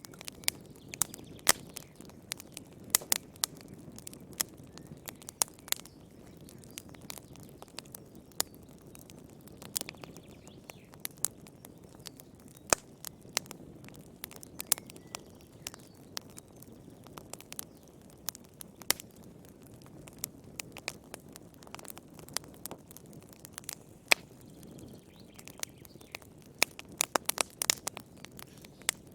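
Wood fire burning in a fireplace, a low steady rush of flame under irregular sharp crackles and pops from the burning wood, with a quick flurry of pops near the end.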